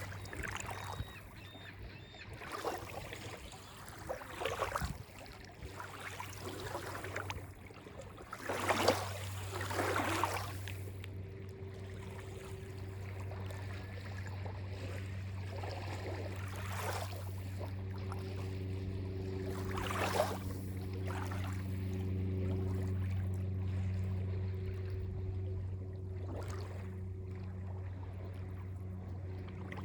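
Small lake waves lapping and splashing on the beach in irregular washes, the biggest about a third of the way in and near the middle. Under them runs a steady low engine hum that gets louder about a third of the way in.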